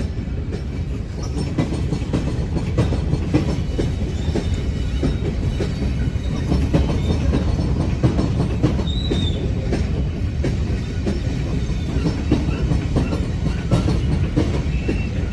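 Freight train rolling past, a steady low rumble with the wheels clicking over the rail joints and a brief faint wheel squeal about nine seconds in.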